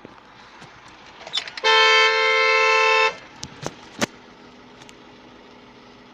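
A vehicle horn gives one steady blast of about a second and a half, two tones sounding together. A few sharp clicks follow, then a faint steady hum.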